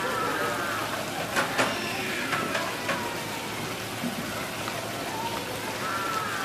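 Steady watery hiss like rain, with a few sharp clicks about a second and a half in. Short, arching high-pitched calls come at the start and again near the end.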